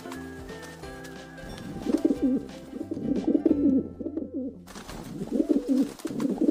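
Rock pigeons cooing: repeated low, warbling coo phrases begin about two seconds in and carry on through the rest. A little background music is heard before the cooing starts.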